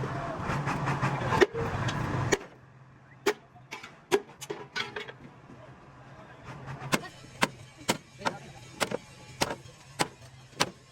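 A loud stretch of workshop noise that cuts off suddenly about two seconds in, followed by sharp, ringing hammer strikes on metal, scattered at first and then a steady run of about two a second, typical of panel-beating on a damaged truck cab.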